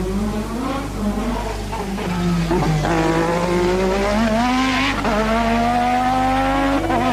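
1988 Formula One race car engine at high revs, climbing in pitch, with breaks at gear changes about three and five seconds in, then holding a steady high note.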